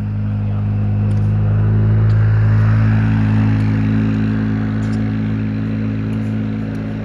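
Engine running steadily with a low, even drone, growing a little louder around two seconds in and then easing back.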